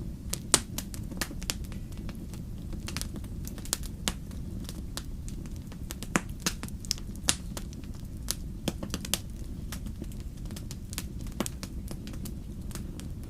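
Wood fire burning in a fireplace: a steady low rumble of flame with frequent irregular crackles and pops, the sharpest about half a second in.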